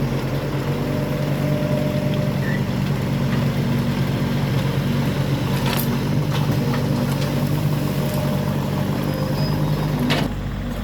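Diesel engine of heavy farm machinery running steadily, with a few sharp knocks or clanks a little past halfway and again near the end.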